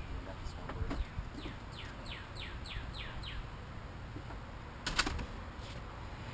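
A songbird singing a quick run of about seven whistled notes, each falling steeply in pitch, starting about a second in. A sharp tap sounds near one second, and a louder one about five seconds in.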